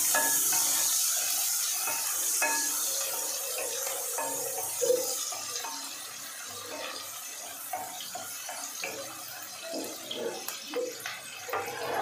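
Chopped onion sizzling in hot oil in a nonstick kadhai, stirred with a wooden spatula that scrapes and knocks against the pan now and then. The hiss is loudest at first and dies down over several seconds.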